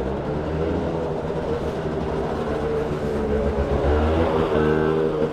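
Street traffic: a motor vehicle's engine running close by, a steady low rumble with a pitched hum that gets a little louder about four seconds in.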